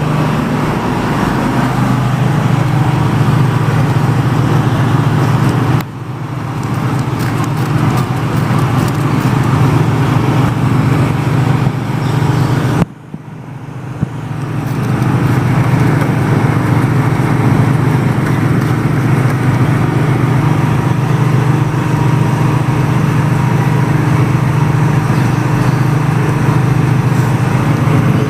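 Steady hiss of a water spray with a low hum underneath. It drops off suddenly about six seconds in and again around thirteen seconds, each time building back up.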